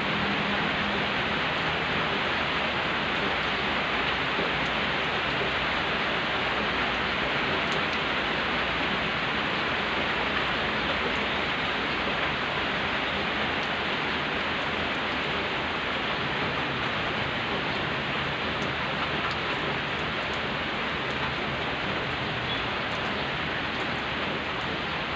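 Steady rain falling on a wet road and leafy trees, an even unbroken hiss.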